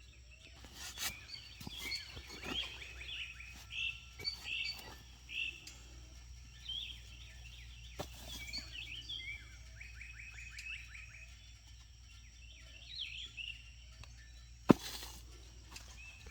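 Small birds chirping and calling, with a fast trill of repeated notes about ten seconds in. A few sharp knocks sound through it, the loudest shortly before the end.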